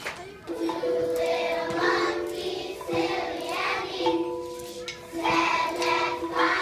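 A group of children singing a song together in held, sustained notes.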